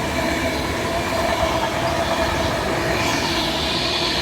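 A train running through the station with a steady rumble of wheels on the rails and a clickety-clack over the rail joints. A higher, hissing whine joins about three seconds in.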